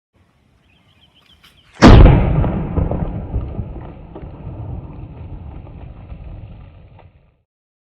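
A vinegar-and-baking-soda bottle bomb bursting: one sharp, very loud bang about two seconds in, then a long rumbling tail that dies away over several seconds and cuts off abruptly.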